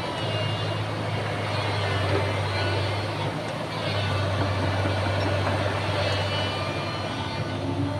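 Excavator's diesel engine running steadily with a deep hum that dips briefly about halfway through, with faint high-pitched squeals over it.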